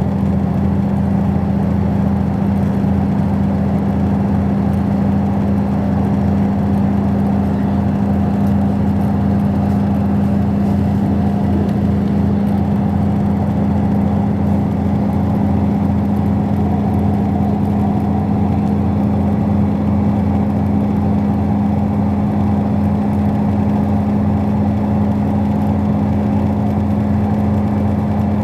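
Diesel train heard from on board while running: a steady, loud drone with a constant low hum over rumbling running noise, unchanging throughout.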